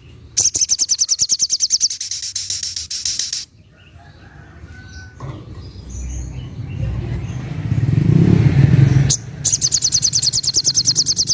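Little spiderhunter (sogok ontong) singing its rapid, evenly pulsed high trill in two long bursts, the first about three seconds long, the second starting near the end. In between, a loud low rumble like a passing motor vehicle.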